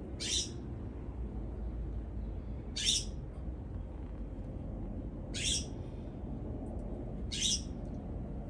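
A bird giving four short, harsh calls, evenly spaced about two and a half seconds apart.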